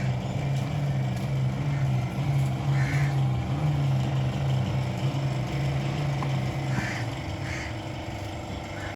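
A motor running with a steady low hum that eases off about seven seconds in.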